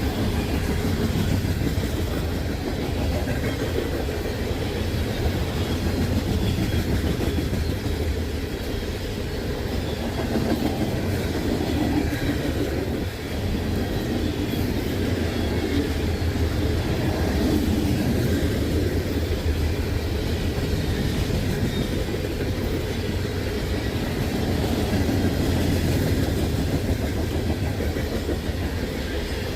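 Freight train cars rolling steadily past, wheels clacking over the rail joints in a continuous rumble.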